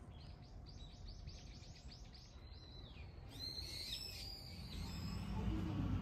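Small birds calling: a fast run of short repeated chirps, then a few louder, more varied calls about three seconds in. A low hum comes up near the end.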